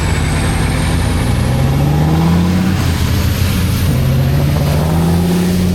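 Heavy off-road trial truck's engine revving under load. Its pitch climbs about a second and a half in, drops back near the middle, then climbs again.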